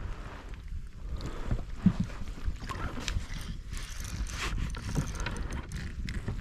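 Scattered knocks and rustles of handling on a fishing kayak, over a low wind rumble on the microphone.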